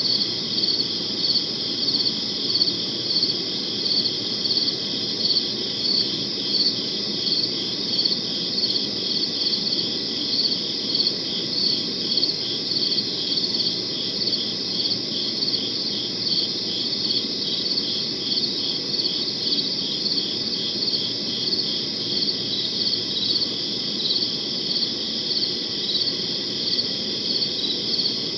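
Crickets chirping in a steady, even rhythm of high-pitched chirps, over faint low background noise.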